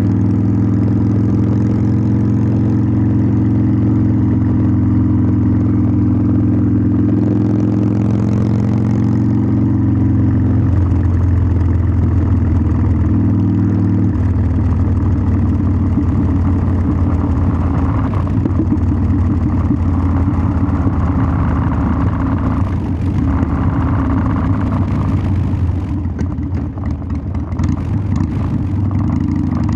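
Harley-Davidson Sportster 1200's air-cooled V-twin running under way, its exhaust note carrying steadily at first. The note steps to a new pitch about ten seconds in and again around fourteen seconds, then runs rougher. Near the end it dips briefly with some crackle.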